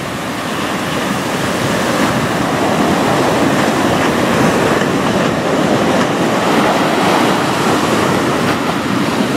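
Heavy hurricane-swell surf breaking on the beach: a continuous loud rush of whitewater that grows slowly louder.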